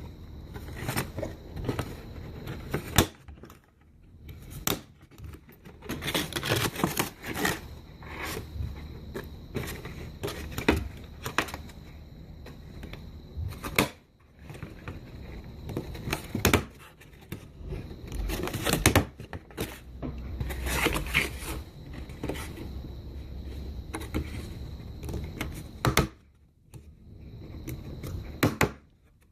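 Paper lantern pieces being handled and rustled, with sharp clicks of a stapler as the flaps are stapled together, repeated many times.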